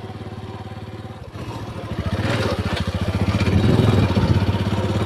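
Small motorcycle engine running close by, its firing pulses even, opening up and getting louder about a second and a half in.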